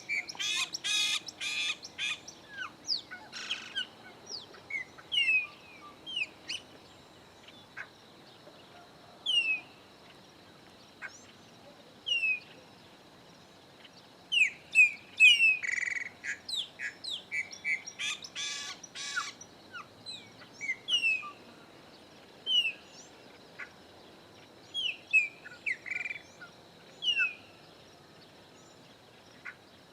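Chopi blackbirds calling: many short, clear whistles that slide down in pitch, repeated every second or two, with loud harsh, buzzy calls at the start and again about halfway through.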